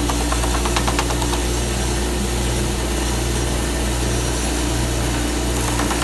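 Stationary sander running with a shop vacuum, a wooden box pressed against the abrasive and moved back and forth, giving a steady motor hum under a rough sanding noise.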